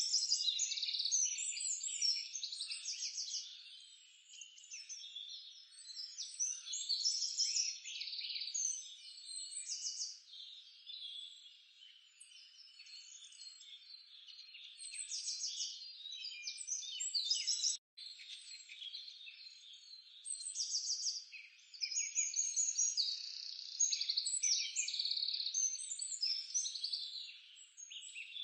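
Chorus of small birds chirping and trilling in dense, overlapping high calls that swell and fade in waves, with a brief cut-out about 18 seconds in.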